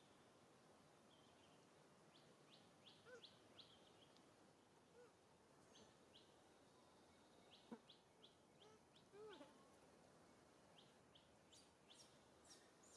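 Near silence with faint bird chirping: short high chirps in quick runs of four or five, coming several times, with a few soft squeaks and one sharp click about eight seconds in.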